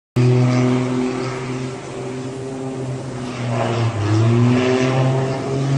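An engine running with a steady droning hum that starts abruptly. Its pitch shifts up and down a little past the middle.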